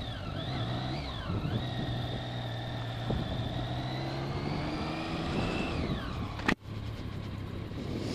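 Motorcycle engine running at low speed as the bike pulls away, with a higher whine that wavers, climbs slowly and then falls away. About six and a half seconds in there is a sharp break.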